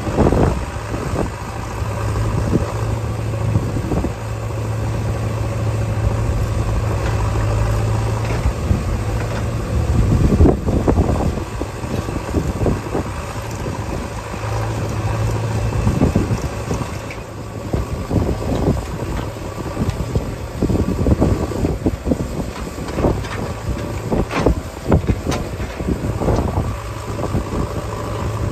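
JCB 3DX backhoe loader's diesel engine running under load, its note swelling in long stretches as the hydraulics work, with repeated knocks and clatter throughout.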